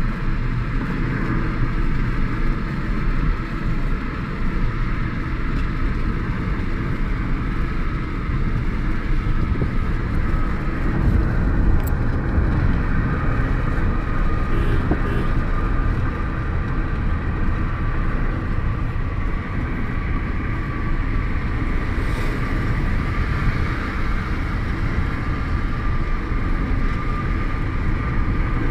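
Car driving at speed on an expressway: steady engine and tyre rumble with a faint steady whine.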